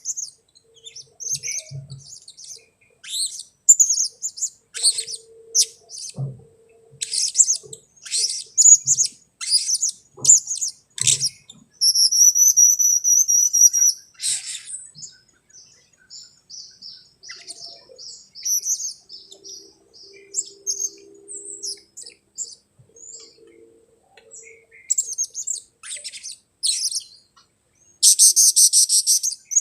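Blue-crowned hanging parrot (serindit) calls used as a trapping lure: many short, sharp, high-pitched chirps and squeaks in quick series, with a held trill for about two seconds some twelve seconds in and a dense buzzy burst of calls near the end.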